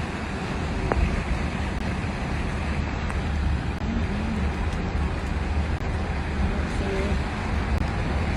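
Flash floodwater rushing in a steady, unbroken roar, with a deep rumble underneath.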